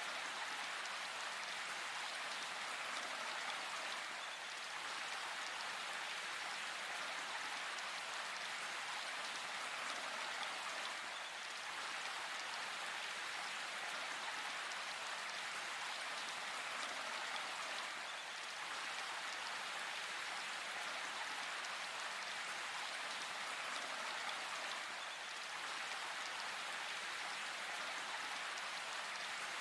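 Steady rain falling in a forest: an even, unbroken hiss of drops.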